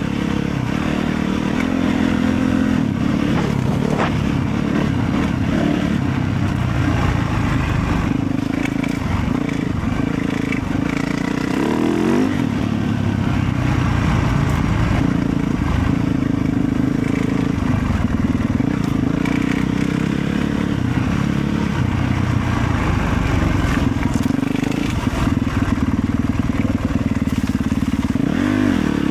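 Motorcycle engine running continuously under way, its pitch shifting up and down a little with the throttle.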